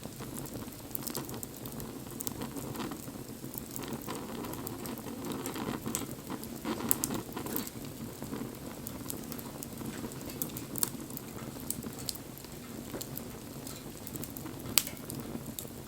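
Wood bonfire burning: a steady low rush of flames with irregular sharp crackles and pops from the burning wood, a few of them louder, the sharpest near the end.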